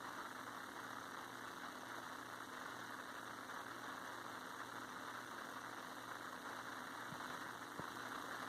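Faint, steady mechanical hum of a motor running, unchanging throughout.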